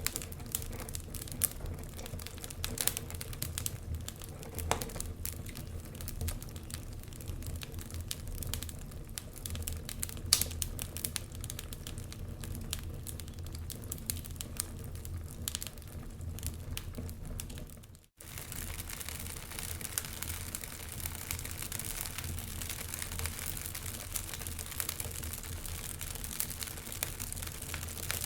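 Wood fire burning in a fireplace: logs crackling with many small irregular pops over a low steady rumble. The sound briefly drops out once, about two-thirds of the way through, then resumes.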